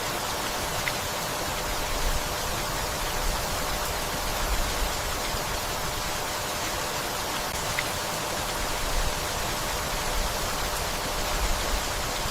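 Steady rainfall, an even hiss with a few brief low rumbles now and then.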